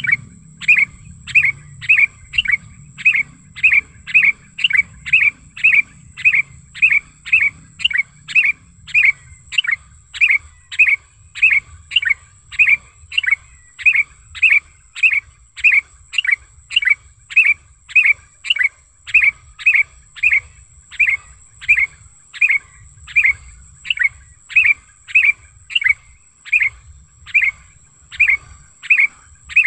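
Sooty-headed bulbul (kutilang) calling in the loud, driving 'nggaruda' style: a short, sharp note repeated about twice a second without a break. A faint, steady high-pitched whine runs underneath.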